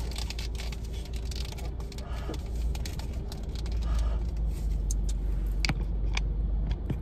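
Car engine idling, heard from inside the cabin as a steady low rumble with a faint hum. A few light clicks and handling sounds come in the last couple of seconds.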